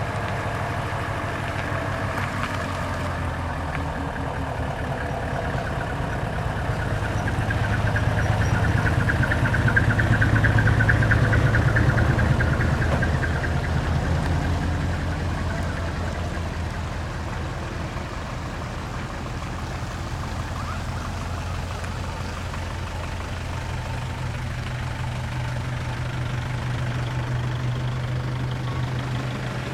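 Heavy diesel truck engine running with a deep, rapidly pulsing exhaust note, growing louder to a peak about ten seconds in and then easing off as the truck moves past.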